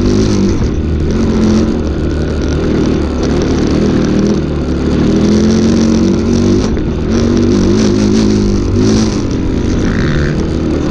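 A 250cc Fantic Casa enduro bike's single-cylinder engine revving up and down as it is ridden through thick mud, with the throttle opening and closing. The engine's pitch keeps rising and falling over the whole stretch.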